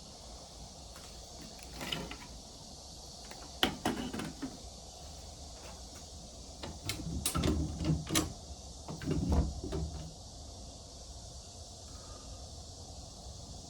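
Irregular knocks, clunks and scrapes in several clusters a few seconds apart, over a steady background hiss.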